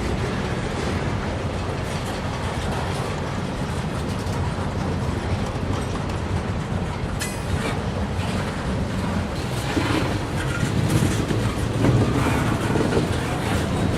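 Freight train rolling past, the steel wheels of its cars clicking over the rail joints over a steady low rumble. There is a sharp click about halfway through, and the train grows louder near the end.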